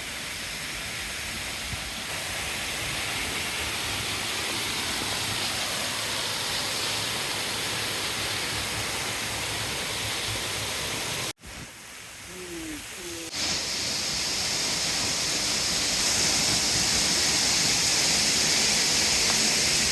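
Steady rushing of a rain-swollen river. About halfway through it breaks off abruptly into a short quieter stretch with a few faint chirps, then comes back louder.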